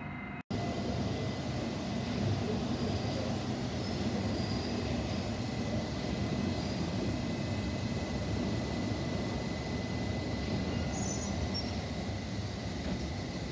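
London Underground S Stock train running along the station tracks: a steady rumble of wheels on rail with a thin, steady high tone over it. The sound drops out for an instant about half a second in, then comes back at full level.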